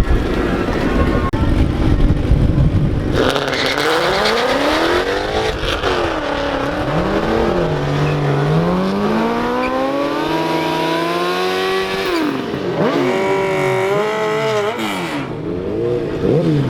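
A car accelerating hard down a drag strip. A heavy low rumble for about three seconds gives way to an engine note that climbs in pitch and falls back several times as the car shifts up through the gears.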